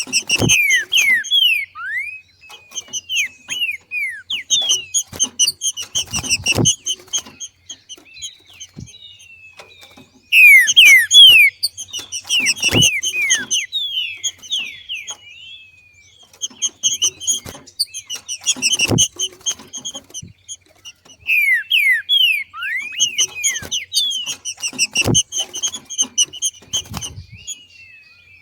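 Female green-winged saltator (trinca-ferro) giving its 'macheado' call: bouts of rapid, sharply falling chirps repeated every few seconds, with a longer lull about halfway through. This is the call of a female coming into breeding condition. A sharp knock sounds about every six seconds.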